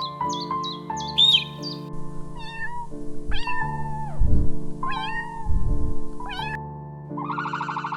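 An animal calling four times in short calls that each drop in pitch, over background music. Two low thuds come in the middle of the calls.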